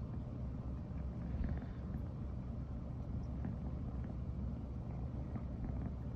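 American Shorthair cat purring, a steady low rumble without a break.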